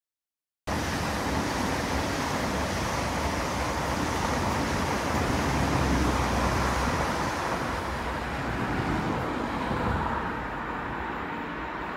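Class 395 Javelin electric train passing on the high-speed line: a steady rush of wheel and rail noise with a faint steady hum. It is loudest about six seconds in and fades after ten seconds. The sound starts after a brief silent gap at the very start.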